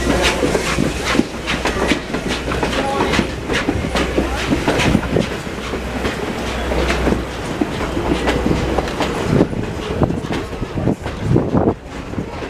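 Railroad cars rolling past, wheels clicking irregularly over the rail joints over a steady low rumble.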